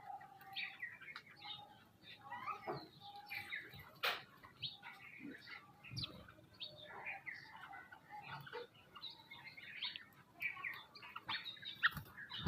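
Several birds chirping and calling at once, many short calls overlapping, with a sharp click about four seconds in.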